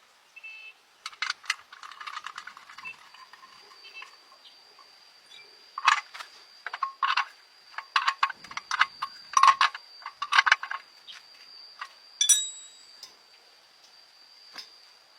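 Metal clinking and tapping, as when tools and small metal parts are knocked and set down during truck repair work. The clinks come irregularly and are densest in the middle, with one ringing metallic strike about twelve seconds in. A thin, steady high tone sounds behind them from about three seconds in.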